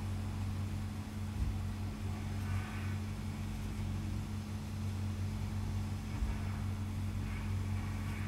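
Steady low hum with a faint rumble underneath: background noise with no distinct event.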